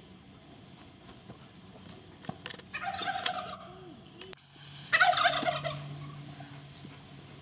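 A large fowl calls twice, about two seconds apart, each a loud rapid rattling call lasting under a second, the second louder.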